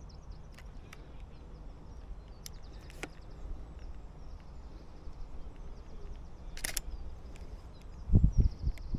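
Outdoor ambience: faint songbird trills over a low steady rumble, with a couple of sharp clicks. Near the end, loud low thumps begin.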